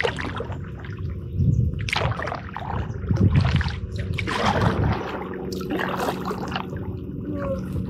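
Kayak paddle blades dipping into and pulling through river water, repeated splashes about once a second with dripping and gurgling water between strokes.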